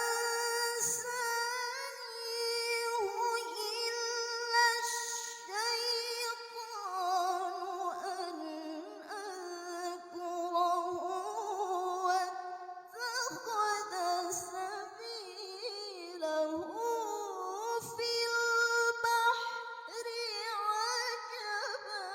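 A woman chanting Quran recitation in the melodic tilawah style, unaccompanied: long, ornamented vowels drawn out with vibrato and sliding turns of pitch, with brief breaths between phrases.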